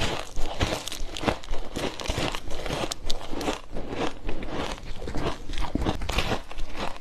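Close-miked crunching of ice being bitten and chewed, a fast, uneven run of crisp crunches.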